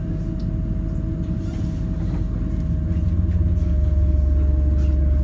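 Tyne & Wear Metrocar heard from inside the passenger car as it creeps slowly along the platform: a low running rumble with a thin steady electrical whine, the low hum growing louder about three seconds in.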